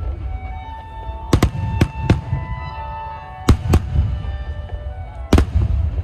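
Fireworks shells bursting in sharp bangs, about seven of them, some in quick pairs, the loudest near the end, over music with long held tones.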